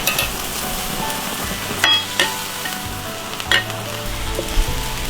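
Sauce sizzling and bubbling in a hot wok, with a utensil clinking sharply against the wok about five times as the beef balls are lifted out.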